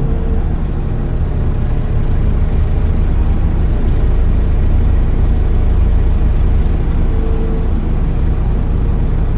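Scania OmniCity single-deck bus running under way: a steady low engine drone with a faint held whine, growing a little louder in the middle and easing off near the end.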